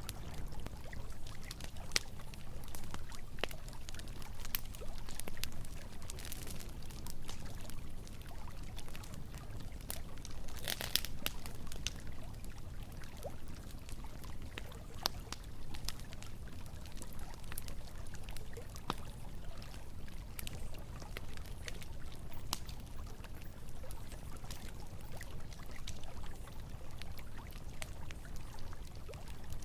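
Campfire crackling with scattered sharp pops over a steady rush of flowing river water, with a brief louder flurry of crackles about eleven seconds in.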